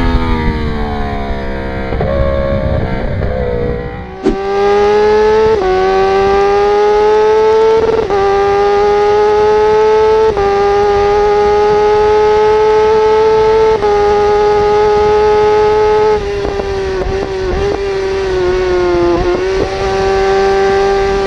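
High-revving sportbike engine heard from onboard: for the first few seconds the pitch falls as the bike slows, then the bike pulls hard at high revs through several upshifts, the pitch creeping up in each gear and dipping briefly at each shift, about every two to three seconds.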